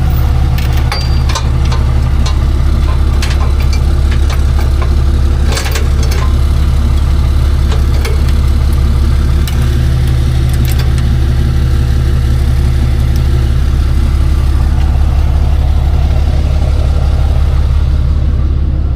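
Tow truck's engine running steadily with a loud, low drone, with scattered clicks and knocks over it in the first several seconds.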